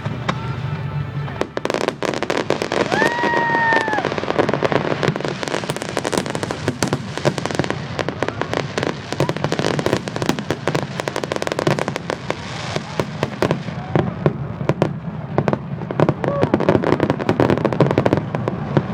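Aerial fireworks going off in a dense barrage of crackling and sharp pops, starting about a second and a half in and running thick after that, with a brief whistle near three seconds in.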